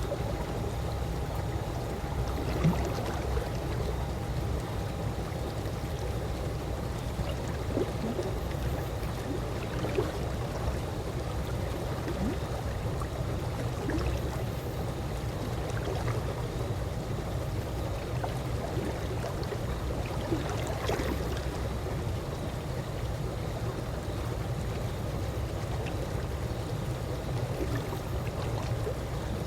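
Calm swimming-pool water moving steadily, with a low even wash and a few small sharp splash or drip sounds scattered through it.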